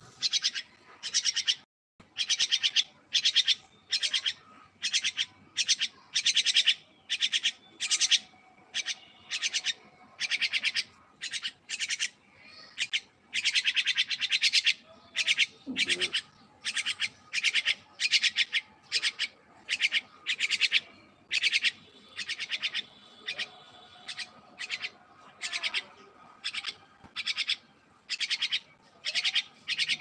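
A bird calling over and over in short, harsh, rattling notes, about one to two a second, without a break.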